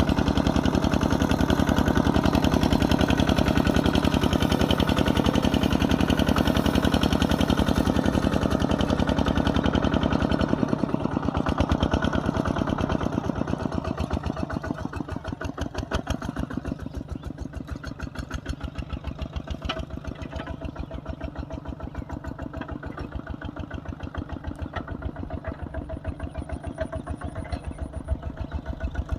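Kubota RT140 single-cylinder diesel engine running hard. About a third of the way through it drops back to quieter, slower running with its separate firing beats clearly spaced out.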